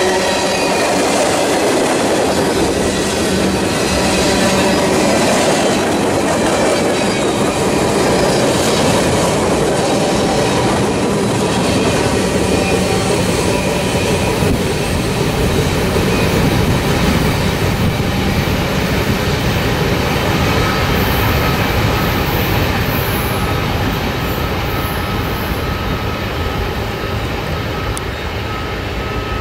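Freight train cars of a mixed manifest, tank cars among them, rolling past on jointed rail: a loud, steady rumble of steel wheels with clickety-clack and a thin, steady wheel squeal. It eases a little near the end as the train draws away.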